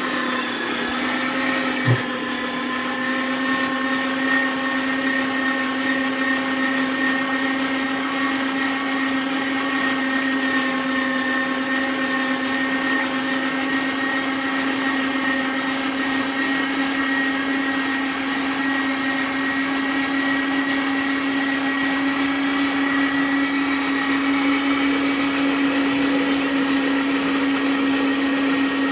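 Kenwood electric meat grinder's motor running steadily while grinding meat, a steady hum whose pitch creeps slightly higher over time, with a single short knock about two seconds in.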